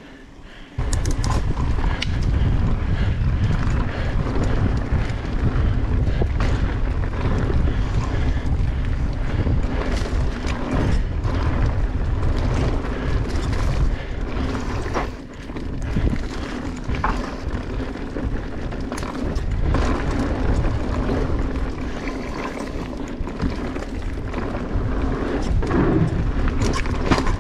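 Wind buffeting the microphone while a mountain bike rides fast down a dirt trail, with the bike rattling and knocking over the rough ground throughout; the noise kicks in suddenly about a second in and dips briefly midway.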